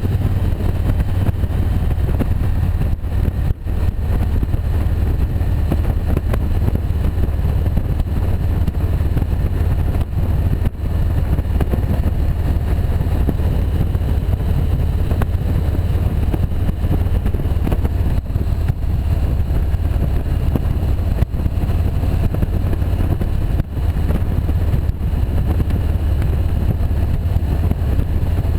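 Motorcycle engine running steadily under way, a deep, constant drone with an even rush of noise over it.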